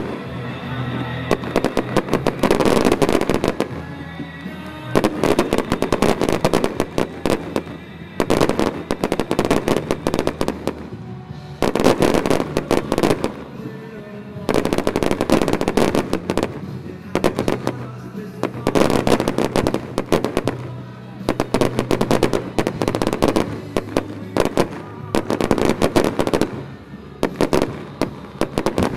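Aerial fireworks bursting in dense crackling volleys that come every one to three seconds, with music playing underneath.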